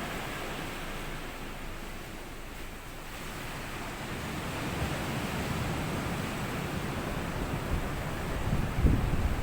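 Small sea waves washing up onto a sandy beach in a steady hiss, easing for a moment and then swelling again. Low rumbling gusts come in near the end.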